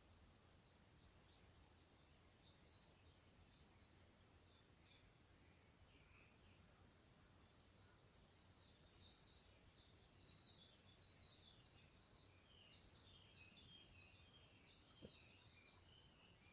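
Faint bird song: rapid high chirping phrases, heaviest from the middle on, over a steady low background hum.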